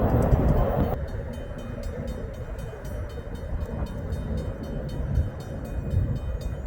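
Freight train rolling past: a steady low rumble with a rapid, even clicking of wheels on the rails. A louder rush drops away sharply about a second in.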